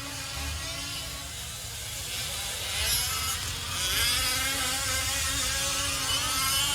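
Several 5th-scale RC trucks' small two-stroke gas engines racing together, each with a buzzing whine that rises and falls as the throttle is opened and eased through the corners and straightaway, getting louder about three seconds in.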